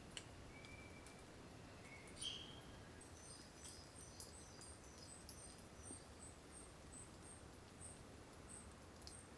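Faint forest birdsong: a few short whistled notes in the first couple of seconds, then a thin, very high note repeated evenly about two or three times a second, over a soft steady hiss.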